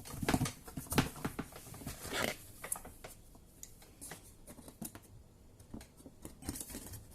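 Paper towel rustling, with light clicks and taps of plastic parts, as water is mopped out of a dishwasher's base tray. The handling is busiest in the first couple of seconds, then thins out to a few scattered ticks.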